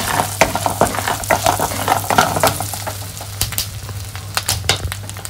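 Raw peanuts, mustard seeds and curry leaves sizzling in hot melted butter in a nonstick wok, with frequent sharp crackles and pops as they roast, while a wooden spatula stirs them.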